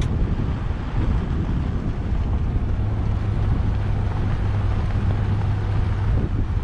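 1992 Ford F150's 302 V8 pulling the truck along at road speed, heard from inside the cab as a steady low drone under road and wind noise, the wind buffeting the microphone. The engine is running smoothly after its repairs.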